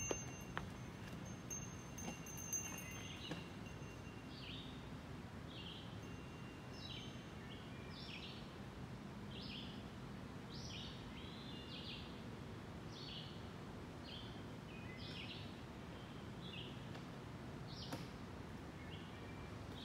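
A songbird calling in the woods: short, quick phrases of high notes, many sliding downward, repeated about once a second over a steady low background hiss. A few faint clicks sound in the first couple of seconds.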